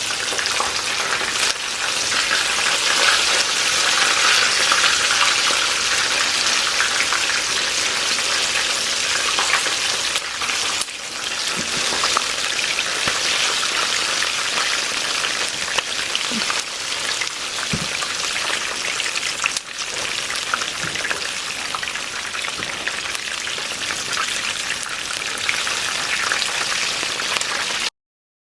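Flour- and cornstarch-coated chicken pieces frying in hot vegetable oil in a skillet: a steady, dense sizzle and crackle. It cuts off suddenly near the end.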